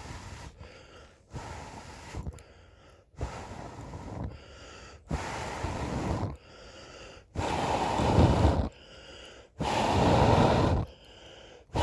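A person blowing long breaths into the drilled air hole of a Finnish candle log fire, fanning a barely glowing ember into flame. There are about five blows of roughly a second each, with pauses for breath between them, and they get stronger toward the end.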